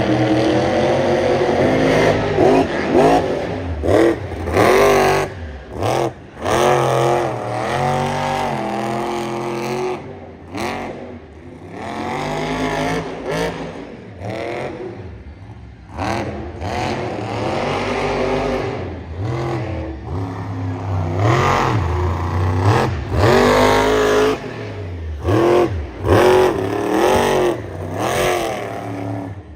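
Monster truck engine revving hard again and again, its pitch climbing and falling, with sudden short drops between revs.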